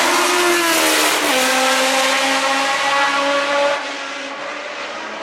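Historic Formula 1 car's racing engine going past at high revs. The pitch falls over the first second, steps down about a second in, then holds roughly steady. The engine gets noticeably quieter near four seconds as the car pulls away.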